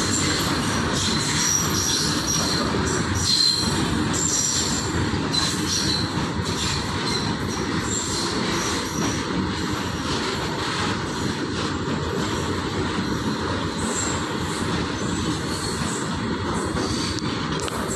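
Freight train of covered goods wagons rolling steadily past, with the wheels running noisily on the rails and short high-pitched wheel squeals coming and going.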